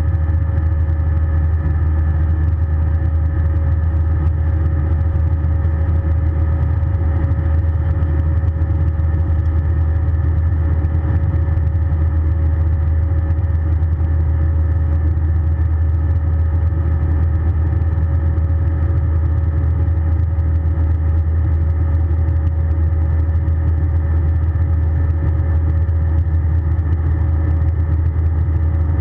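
Steady drone of an Airbus A320's jet engines heard inside the passenger cabin: a deep rumble with a steady whine above it, unchanging throughout.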